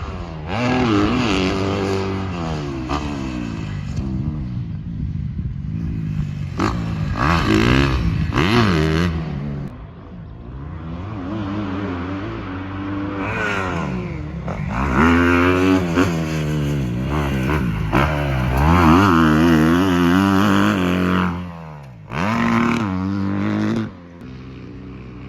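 Kawasaki dirt bike engines revving hard, the pitch climbing and falling again and again as the throttle is worked and gears change.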